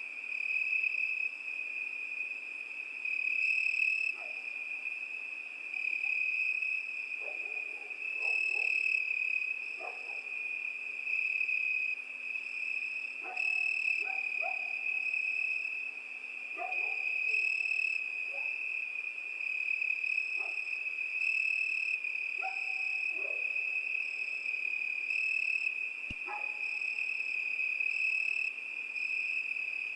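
Crickets chirring in a continuous, steady high trill. Short, lower calls from another night animal come and go over it a dozen or so times.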